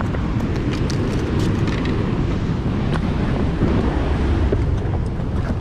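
Wind buffeting the microphone: a steady low rumble that rises and falls throughout, with a few faint light clicks above it.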